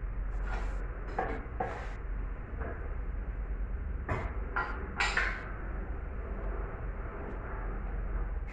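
Metal engine parts and hand tools knocking and scraping during an engine teardown: a few short clanks in the first two seconds and another cluster around four to five seconds in, over a steady low hum.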